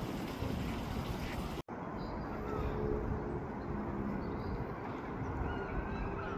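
Outdoor ambience with a steady rushing hiss and low rumble. A hard edit cut comes about a second and a half in, after which the sound is duller, with low rumble and a few faint bird chirps.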